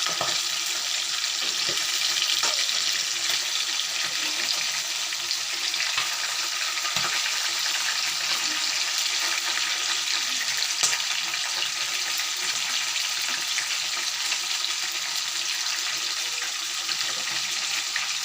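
Chicken wing pieces frying in hot oil: a steady sizzle, with a few light clicks scattered through it.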